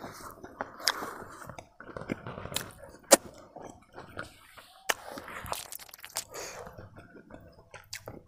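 A man chewing a mouthful of chicken and rice close to a clip-on microphone: wet, uneven chewing with several sharp mouth clicks and smacks, the loudest about three seconds in.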